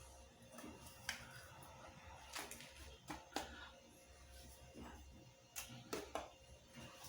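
A small spoon tapping and clinking against a pot and small cups, about eight sharp taps at irregular intervals, as a warm mix of melted candle wax and sawdust is spooned in.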